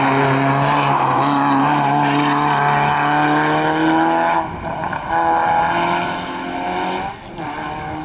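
Rally car engine under hard acceleration, revs climbing steadily, then cutting off sharply about four and a half seconds in and again about seven seconds in as the driver shifts or lifts, climbing again after each break.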